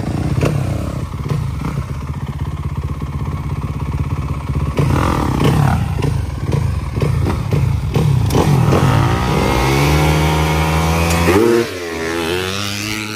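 Dirt bike engine running and being revved. Its pitch climbs about ten seconds in, then drops suddenly a couple of seconds later.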